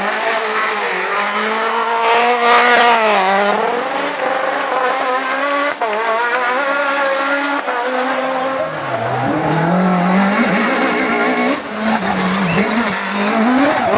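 Peugeot 306 Maxi kit car's engine racing hard: it climbs in pitch, drops back sharply at each gear change or lift, and at one point falls to a low note before pulling up again.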